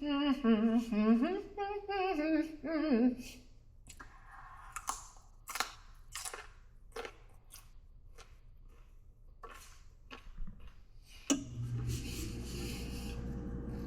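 A woman hums a wordless tune for about three seconds. Then come crisp crunches of someone chewing crunchy raw vegetables, roughly one or two bites a second, loud and close. Near the end there is a sharp click, and a steady low hum sets in.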